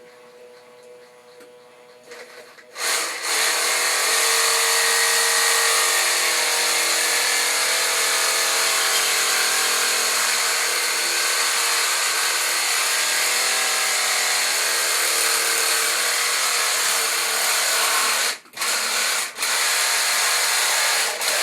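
A power tool cutting through a glued PVC drain pipe. It runs quietly at first, then loud and steady from about three seconds in. Near the end it stops twice briefly and starts again.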